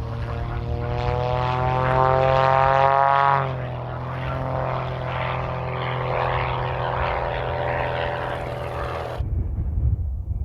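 Howard 500 twin-engine propeller airliner passing close on its landing approach, its two radial engines and propellers droning with a slowly rising pitch that drops sharply about three and a half seconds in as it goes by. A rougher engine rush follows and cuts off abruptly near the end, leaving a low rumble.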